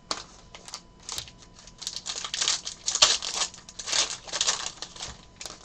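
Trading-card pack wrapper crinkling and tearing as it is handled and opened: a run of quick rustles, sparse at first and busiest and loudest in the middle seconds.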